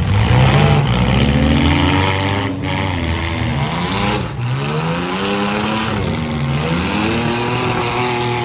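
Demolition derby compact car engines revving up and down repeatedly as the cars drive and shove on the dirt track, with the pitch rising and falling over and over.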